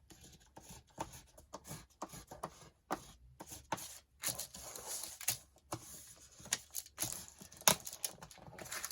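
A folded sheet of paper being rubbed to burnish out a crease: a run of irregular, scratchy rubbing strokes and light taps, with one sharper stroke near the end.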